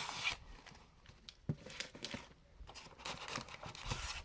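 Trading card packs in foil wrappers crinkling and cardboard rustling as the packs are pulled out of a hobby box, with a light knock about a second and a half in.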